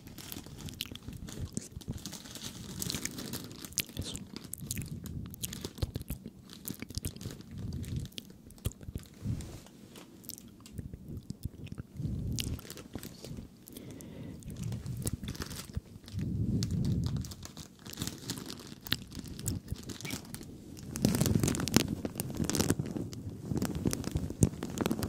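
Close-miked ASMR crunching and clicking: a dense run of small crackles and clicks with dull low swells every few seconds, louder near the end.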